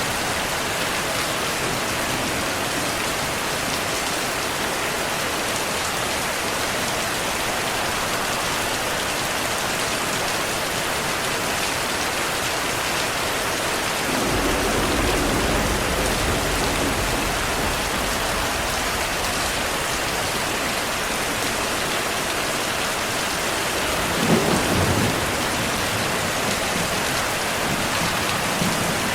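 Steady rain. A low roll of thunder comes in about halfway through and lasts a few seconds, and a shorter, louder rumble of thunder follows near the end.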